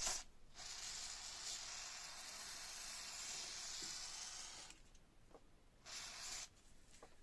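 Aerosol spray can hissing in one long burst of about four seconds, then a short second burst near the end.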